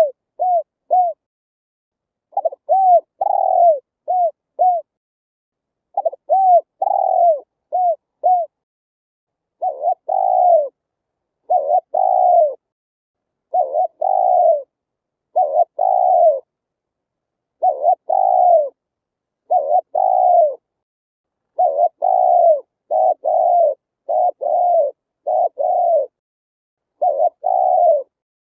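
Spotted dove cooing: phrases of four or five quick, arching coos, then from about a third of the way in a run of single, longer coos about every two seconds.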